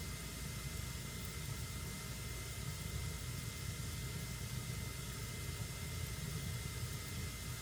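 Fire burning in a fireplace: a steady low rumble and hiss of flames, with an occasional faint crackle and a faint steady high tone underneath.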